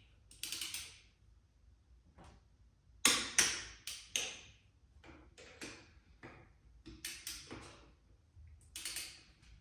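Click-type torque wrench working bolts down in a star pattern at 25 lb-ft: sharp metallic clicks and ratchet ticks, about a dozen of them at uneven intervals.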